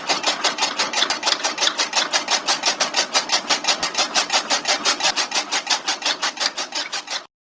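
DIY miniature chaff cutter machine running, making a rapid, even, scraping clatter of about six or seven strokes a second, which cuts off suddenly near the end.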